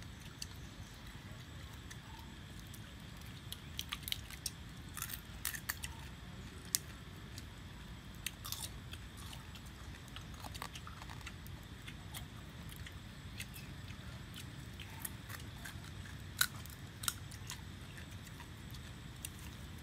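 People chewing roasted crab and cracking its shells: scattered sharp crunching clicks, busiest a few seconds in and again near the end.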